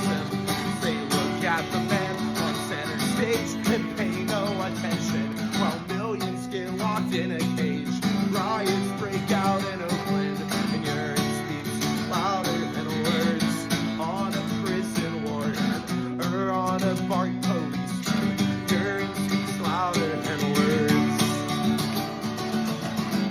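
A strummed acoustic guitar keeps up steady chords under a voice carrying a wavering melody line.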